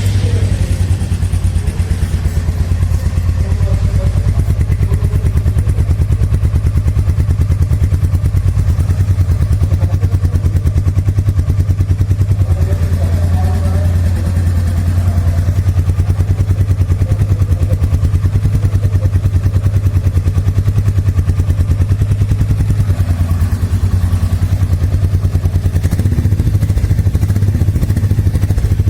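Royal Enfield Meteor 350's single-cylinder engine idling just after start-up, its exhaust beating out an even, steady rhythm of pulses.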